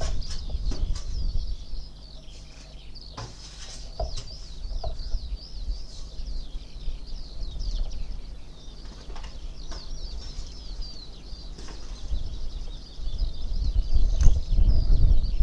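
Small birds twittering: a dense run of rapid, short, high chirps. Under it is a low rumble, loudest at the start and again near the end.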